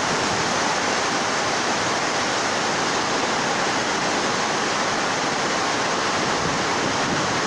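Heavy rain: a loud, steady rush of falling and running water.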